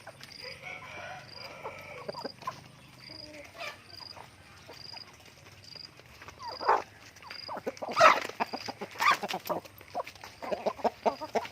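Chickens clucking and calling, with a few louder squawks in the middle and quick runs of clucks near the end. A faint high chirp repeats evenly about every half second behind them.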